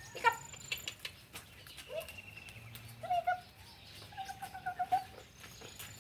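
A dog whining in a series of short pitched whines, with scattered light clicks between them.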